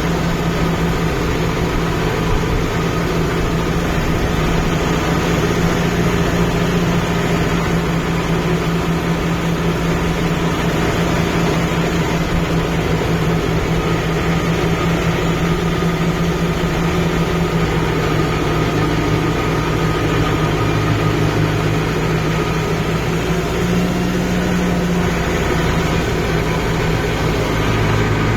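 Kubota MU5502 tractor's four-cylinder diesel engine running steadily under load, with small shifts in engine speed near the end.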